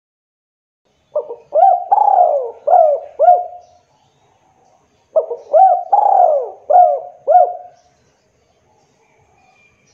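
A derkuku dove cooing in two phrases of about five rising-and-falling coos each, a second or so apart.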